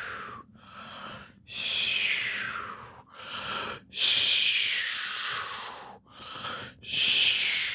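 A person's exaggerated, performed sleep breathing, voicing a plush dragon dozing off: three slow cycles, each a shorter, quieter in-breath followed by a loud, hissing out-breath that falls in pitch.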